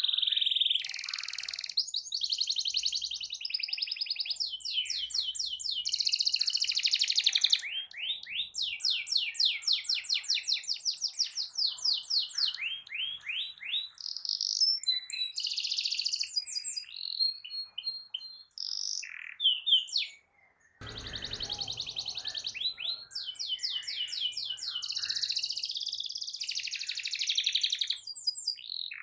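Domestic canary singing continuously, with long rolling trills of rapid repeated high notes. The song breaks off briefly a little past two-thirds of the way through, where a short low thump is heard.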